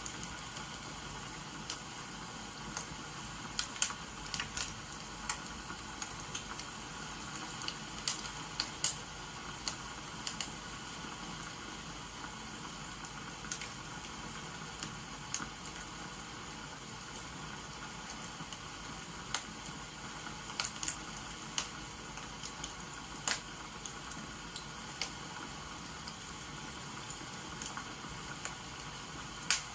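Crackling wood fire over a steady hiss of rain: irregular sharp pops and snaps, some in small clusters, scattered through a constant rushing background.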